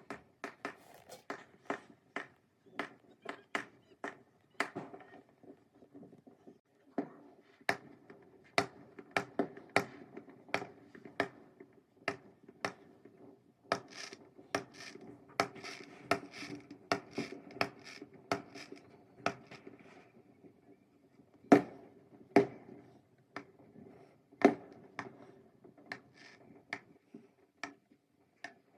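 Fireworks going off in irregular sharp bangs and crackles, sometimes several a second, with two louder bangs about two-thirds of the way through.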